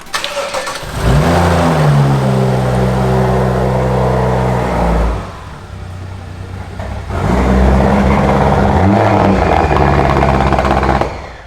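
2016 BMW M235i's turbocharged 3.0-litre inline-six cranking and catching, its pitch flaring up briefly before settling to a steady run. It runs about four seconds, drops away, then is started again and runs about four more seconds before shutting off. This is the first start of the engine after the wreck rebuild.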